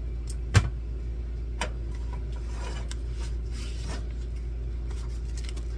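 Kitchen handling noises: one sharp knock about half a second in, a lighter knock a second later, then faint clicks and rubbing, over a steady low hum.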